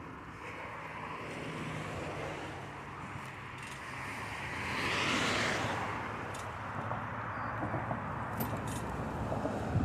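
Steady outdoor road noise while cycling, with a motor vehicle passing about five seconds in, swelling and then fading away.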